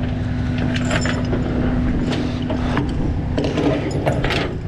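Tow truck engine running steadily, with a steady hum for the first half or so, then sharp metal clicks and clanks of chains, hooks or winch rigging being handled.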